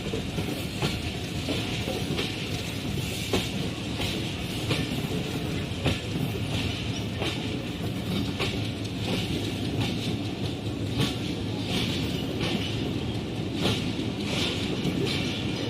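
Hazara Express passenger coaches rolling through the station, wheels clicking over rail joints at irregular intervals over a steady rumble and hiss.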